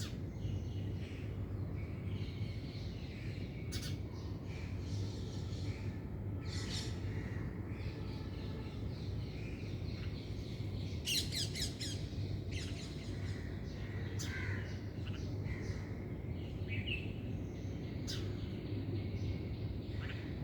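Birds calling and chirping, with a quick run of repeated high notes about eleven seconds in, over a steady low hum.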